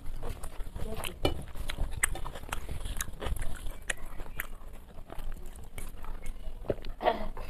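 Close-miked chewing and wet mouth noises of a person eating a mouthful of rice by hand, with irregular smacks and clicks. Near the end come a few gulps as she drinks water from a glass.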